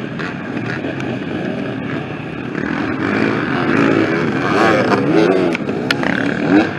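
Several dirt-bike engines running and revving, their pitch sweeping up and down, growing louder about halfway through. A couple of sharp clicks come near the end.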